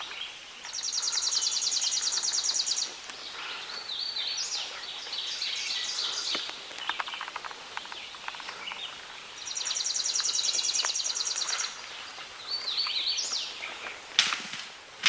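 A songbird singing the same song twice: a high, fast, evenly pulsed trill of about two seconds, then a jumbled, zigzagging warbled phrase. A few sharp rustling clicks come just before the end.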